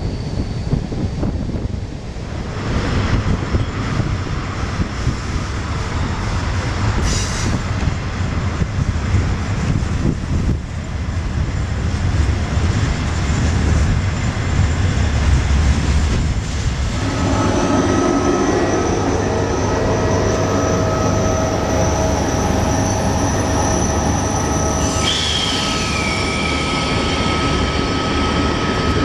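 Passenger train running on the rails: a steady rumble of wheels and carriage. About halfway through, high wheel squeal tones join in, and near the end one squeal slides down in pitch.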